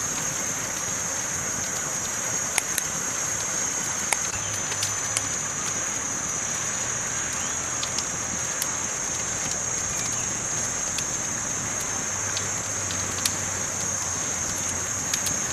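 Campfire burning with a steady hiss and scattered sharp crackles and pops at irregular intervals.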